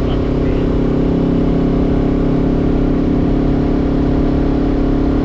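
Honda CBR500R's 471 cc parallel-twin engine running at steady revs through a LeoVince LV-10 slip-on exhaust, holding an even pitch, with wind rumble on the microphone.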